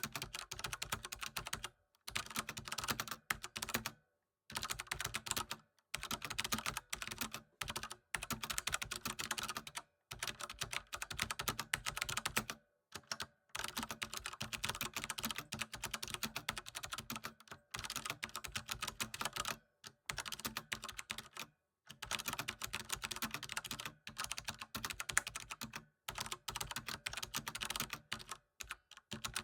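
Computer keyboard typing: quick runs of key clicks, broken every second or two by short pauses.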